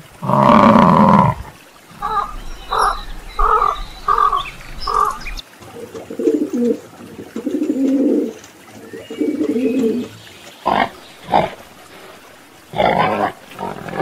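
A run of separate animal calls. A Highland cow gives a loud moo about a second long at the start, followed by a string of short calls. A pigeon coos in low, pulsing phrases through the middle, and a wild boar grunts in a few short bursts near the end.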